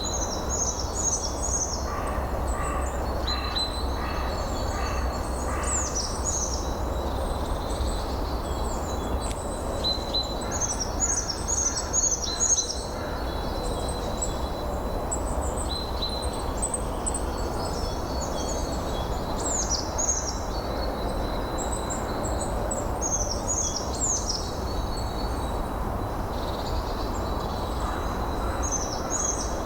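Songbirds singing in runs of short, high, falling notes over a steady rush of wind.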